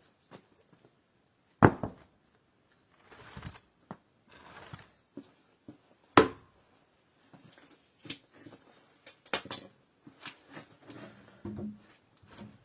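Objects being handled in a small room: two sharp knocks, one about a second and a half in and one about six seconds in, with rustling between them and a run of small clicks and taps near the end.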